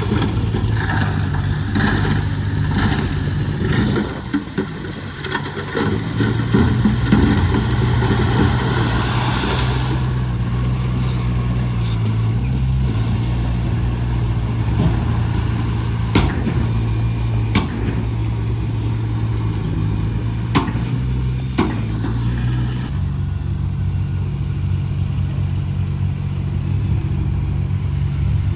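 Heavy construction-machine diesel engine running steadily under load, with heavy clattering over the first ten seconds, then several sharp metallic clanks, and its note shifting near the end.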